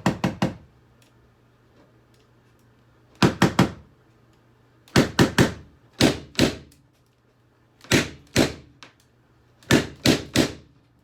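Sharp hard knocks in quick clusters of two to four, six clusters about one to two seconds apart.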